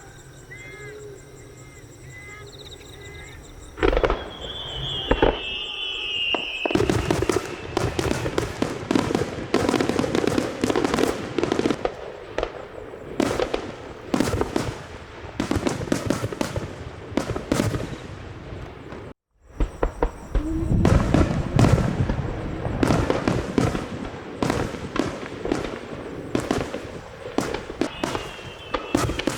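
Aerial fireworks display: a sharp bang about four seconds in with a falling whistle, then a rapid, continuous barrage of shell bursts and crackling that breaks off for a moment about two-thirds of the way through and resumes.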